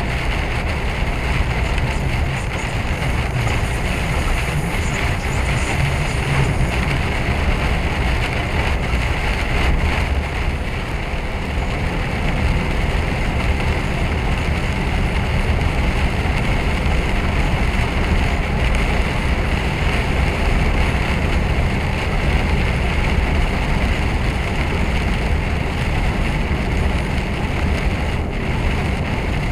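Steady drone of an articulated lorry driving at speed, heard inside the cab: engine, tyre and wind noise blended into one even rumble.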